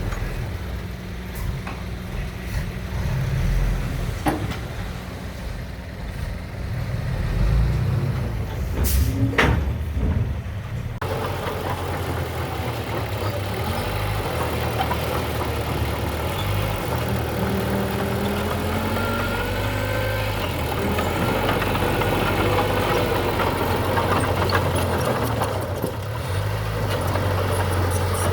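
Diesel engine of heavy earthmoving machinery running steadily, with a sharp clank about nine seconds in. From about eleven seconds the sound turns fuller, with faint squeals wavering above the engine.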